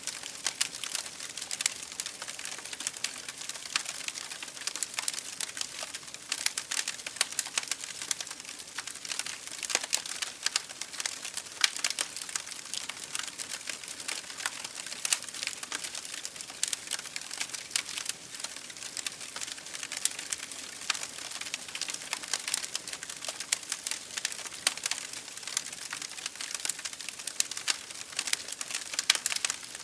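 Wood fire burning in an open fireplace, with a steady hiss and dense, irregular crackles and pops.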